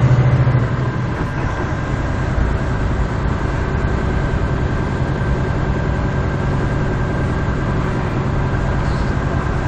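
Steady engine drone and road noise of a vehicle driving on a snow-covered road, heard from inside the cab. It is slightly louder and hums more strongly for the first half second, then holds steady.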